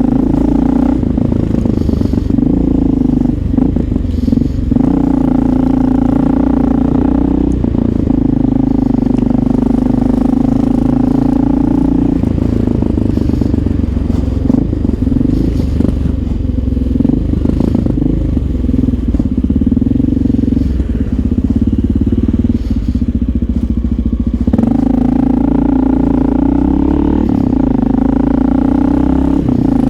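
Honda XR650L's air-cooled single-cylinder four-stroke engine running while the bike is ridden, a steady deep exhaust rumble, described as purring. Its note rises and strengthens with throttle for a few seconds at a time, about a fifth of the way in and again near the end.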